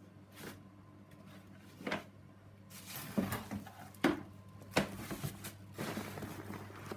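Handling noises: a series of sharp knocks and clatters, with rustling from about the middle on, over a steady low hum.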